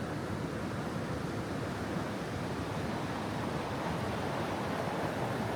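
Fast-flowing mountain stream rushing over rapids: a steady, even rush of water.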